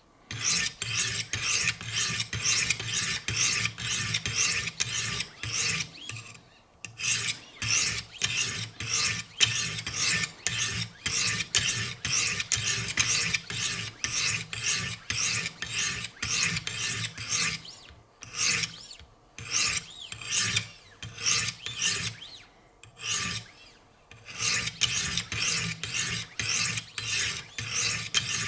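100-grit stones of a Wicked Edge guided sharpener scraping back and forth along the edge of an S90V steel knife blade, about two strokes a second, with a few brief pauses. This is the coarse grinding stage that sets the bevel.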